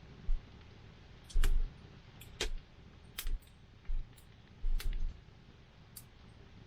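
Wood campfire crackling, with irregular sharp pops about every half second to a second as the burning wood snaps.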